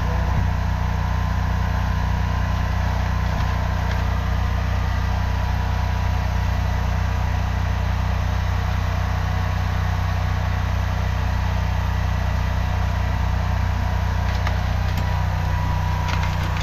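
High-pressure drain jetter's engine running steadily under load with a faint thin whine, driving the water jet that cuts tree roots out of a clay sewer pipe. A few light clicks near the end.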